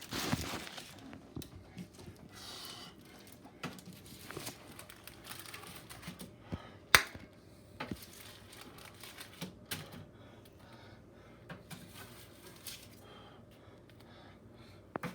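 Serving utensils clicking and scraping against a pan and plates while food is dished up, with scattered irregular knocks and one sharper clink about seven seconds in.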